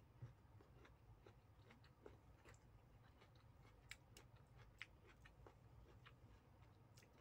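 Faint close-up chewing of soft fried egg and rice, with scattered mouth clicks and smacks, a couple slightly louder about four and five seconds in, over a low steady hum.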